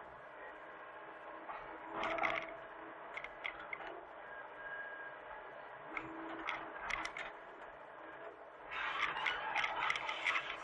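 Hitachi mini excavator's engine running steadily, with irregular clicks and metallic clatter over it that grow into a dense burst near the end.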